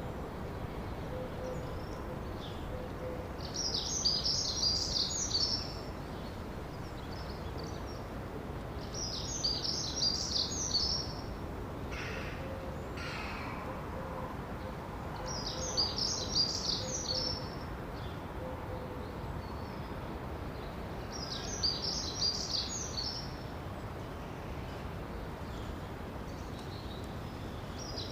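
A songbird singing the same short, high chirping phrase over and over, about every six seconds, over a steady background hiss.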